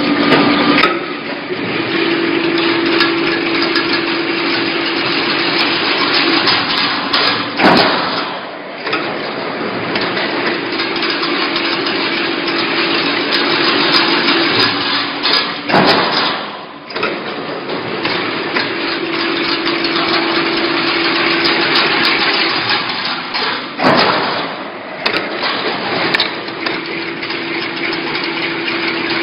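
Automatic chain-link mesh weaving machine running in a repeating cycle: a steady motor hum for about four seconds, then a sharp metallic clatter about every eight seconds, three times, over continuous clattering of wire being worked.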